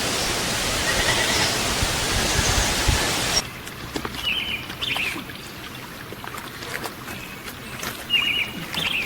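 Steady rushing noise like a stream for the first few seconds, then an abrupt cut to a quieter background in which a small songbird gives short chirping calls, each a quick run of notes, twice, a few seconds apart.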